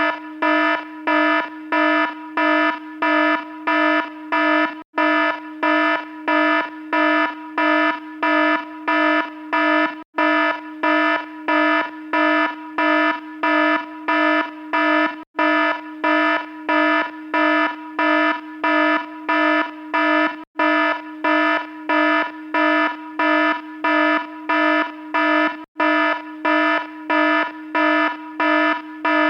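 Electronic alarm sounding a loud, buzzy beep about twice a second, steady and unchanging, with a very brief break roughly every five seconds.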